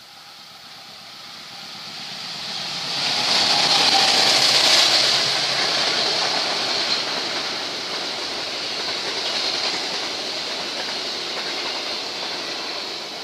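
Long passenger train hauled by a diesel locomotive passing at speed. The noise builds to its loudest about three to five seconds in as the locomotive goes by, then settles into a steady rush of wheels on rails as the coaches pass.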